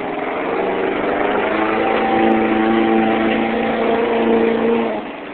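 Toyota mud truck's engine revving up and held at high revs, then easing off sharply near the end.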